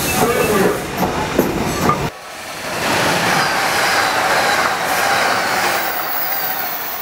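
About two seconds of a moving train's rumble and clatter, then a sudden cut to the steady rushing noise of an Amtrak passenger train passing at speed on the adjacent main line, its wheels clattering on the rails. The rush swells and then fades near the end.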